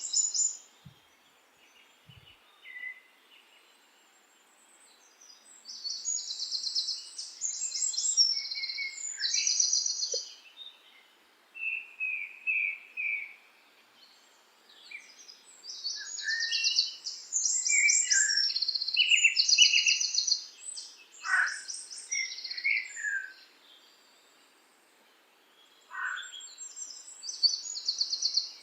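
Birdsong: high-pitched trills and chirps in repeated bursts with quiet pauses between them, and a couple of short downward-sliding whistles in the second half.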